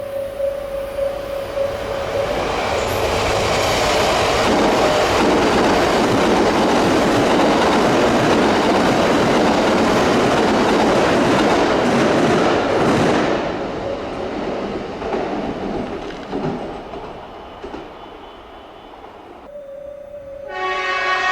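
A train running through the station: a loud rush of wheel and rail noise that builds over the first couple of seconds, holds, then fades away over the last several seconds. A steady high tone sounds at the start and comes back near the end.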